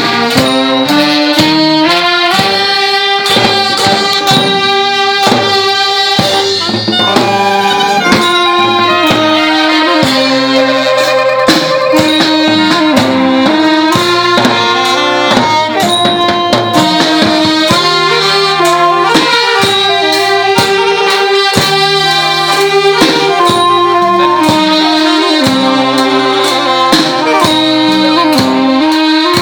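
Thai brass band (trae wong) playing a melody, wind and brass instruments moving from note to note over a steady drum beat.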